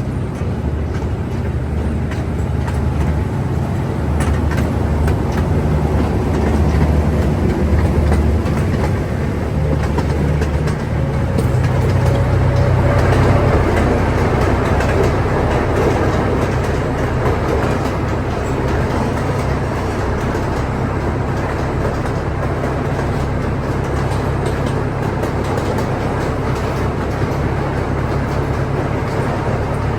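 Train running on the rails: a loud, steady rumble that swells twice, about 8 and 13 seconds in, with a faint rising whine near the middle.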